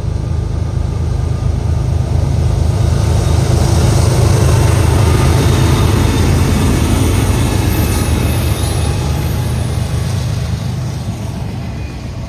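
Freight train with diesel locomotives passing close by: a heavy rumble with rail and wheel noise that builds to its loudest about four seconds in and fades near the end.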